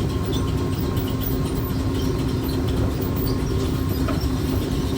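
Grain leg (bucket elevator) running: a steady low mechanical rumble with a fine rattle and a constant hum.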